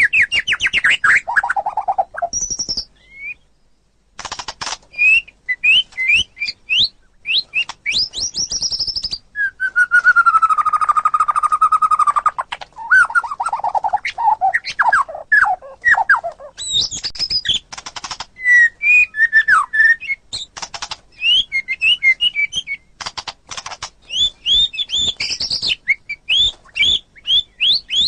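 White-rumped shama (murai batu) singing a varied song of whistled phrases, rapid chattering trills and rising and falling notes. There is a brief pause about three seconds in and a long held whistle near the middle.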